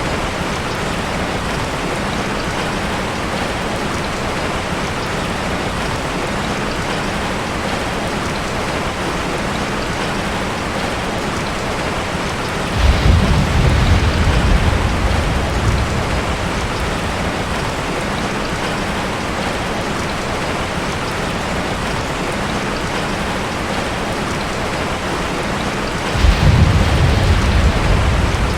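Heavy rain falling steadily on a tin roof, with two low rolls of thunder that come in suddenly, one about halfway through and one near the end.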